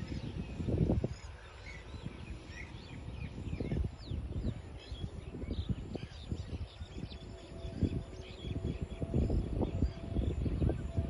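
Small birds chirping, many short high calls throughout, over irregular low gusts of wind buffeting the microphone.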